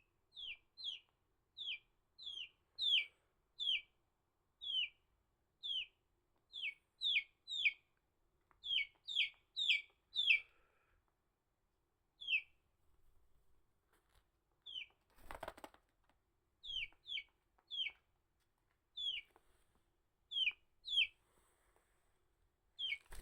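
Chick peeping: short, loud cheeps that each fall in pitch, about two a second, with a pause of a few seconds partway through. Around the middle there is a brief noisy burst.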